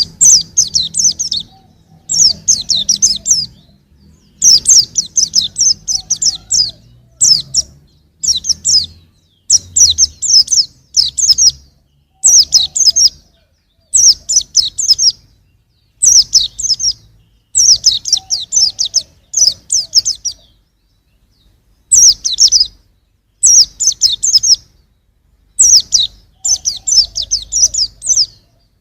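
A young white-eye (pleci) singing: repeated short phrases of rapid, high, twittering notes, each phrase about a second long, with brief pauses between them and one longer pause about two-thirds of the way through.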